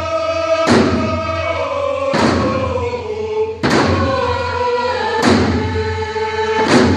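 A group of voices sings a Pacific Northwest Coast Native song together, with a slow, even beat of hand drums struck in unison about every second and a half, five beats in all.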